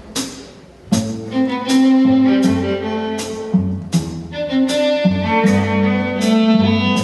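String ensemble of violins and cellos playing an orchestral rock arrangement over sharp percussive hits on a steady beat. About a second in, a low bass line and sustained string chords come in and the music gets louder.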